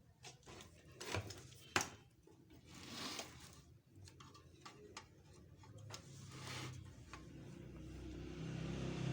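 A few sharp clicks and knocks of handling, then a compressor motor starting and running with a steady low hum that grows louder over the last second or two.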